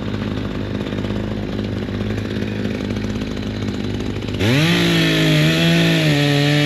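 Gas chainsaw running at a low, steady pitch. About four seconds in it turns abruptly louder, the engine note rising and then holding at high speed as it revs up to cut.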